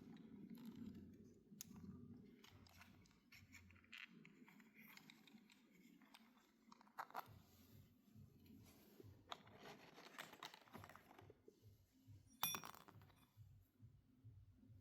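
Faint handling noises: light clicks and clinks of small hard objects, with one sharper click about twelve and a half seconds in.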